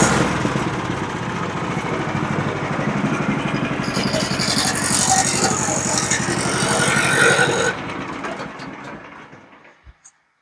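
Woodland Mills manual band sawmill running, its gas engine driving the blade through a red cedar log. About eight seconds in the engine is shut off and winds down to silence over a couple of seconds.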